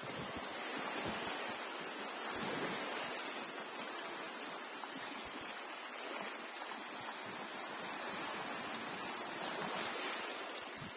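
Sea surf washing onto the shore: a steady hiss of breaking water that swells and eases every few seconds.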